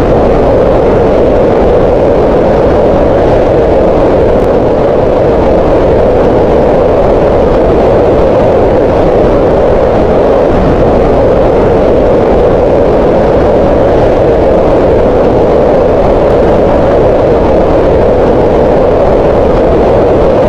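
Green noise: steady synthetic noise centred on the middle of the hearing range, around 500 Hz, with little high hiss, unchanging in level.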